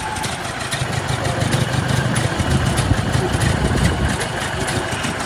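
A car engine running at low revs with a steady low rumble. It is loudest through the middle and eases off near the end.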